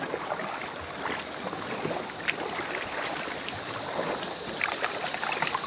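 Water splashing and lapping around a sea canoe as it is paddled along, with many small irregular splashes over a steady wash.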